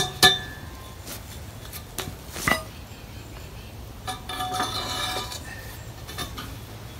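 Steel tools and hydraulic cylinder parts clinking and clanking: several separate sharp metal knocks, and about four seconds in a second or so of ringing metal scraping.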